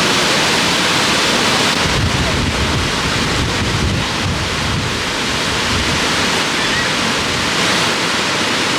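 Steady rushing of a waterfall, with wind buffeting the microphone in low rumbling gusts from about two seconds in until about five seconds in.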